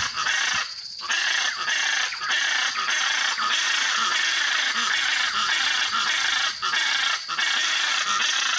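Hyacinth macaws calling with very loud, harsh squawks that overlap almost without a break, pausing briefly about a second in.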